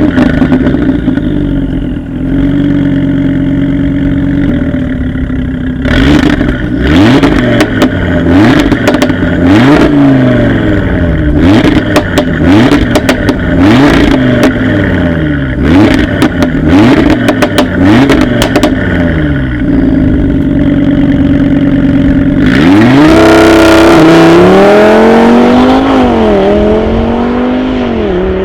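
Audi RS3's turbocharged 2.5 TFSI inline five-cylinder engine idling steadily, then revved repeatedly with sharp cracks from the exhaust between revs. About 22 seconds in it pulls hard under full acceleration, the pitch climbing and dropping briefly at each quick upshift.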